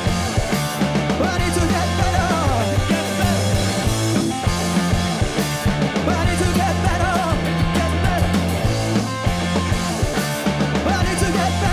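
Live rock band playing loud, with a steady bass line and drums under a wavering lead melody.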